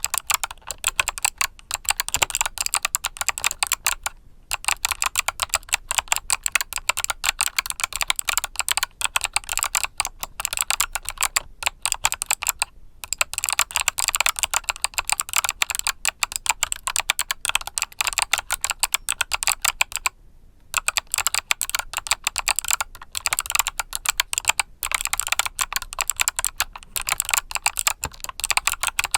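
Fast, continuous typing on a mechanical keyboard with clicky Kailh Box summer switches. Each keystroke gives a crisp click, broken by brief pauses about 4, 13 and 20 seconds in.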